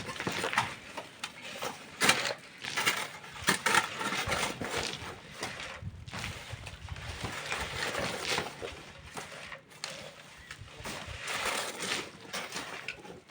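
Hand tools working sand and stone: irregular scraping and crunching bursts, with a few sharp knocks among them.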